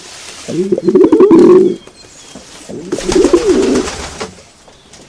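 Dove cooing: two low cooing phrases of about a second and a half each, the second starting about three seconds in.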